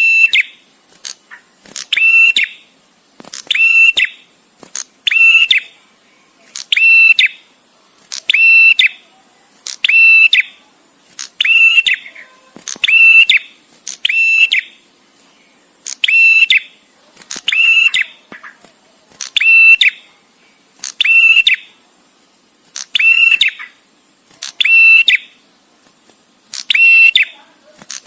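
Male prenjak tamu singing: one short, rapid trilled call repeated about every one and a half to two seconds, with brief pauses between calls.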